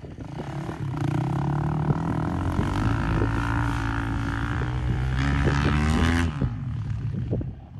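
Tractor engine running steadily, then cutting off abruptly about six seconds in.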